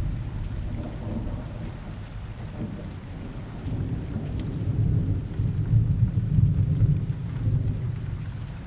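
Steady rain with low rolling thunder that swells about halfway through and then eases.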